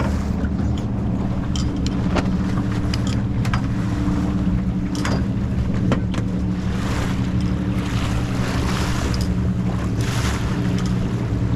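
Wind buffeting a head-mounted action camera's microphone on a sailboat running downwind, with water washing along the hull, a steady low drone underneath and scattered small knocks and splashes.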